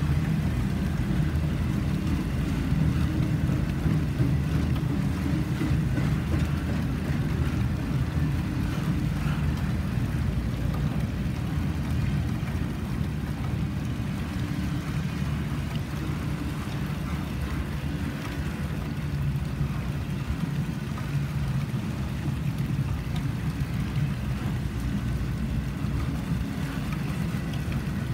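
Double-stack intermodal freight cars rolling past on steel wheels: a steady low rumble that eases slightly in the second half, with rain falling.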